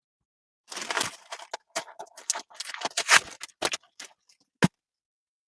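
Crinkling and rustling of a takeout sandwich's paper wrapping as it is opened, a run of irregular crackles and taps, with a single sharp tap near the end.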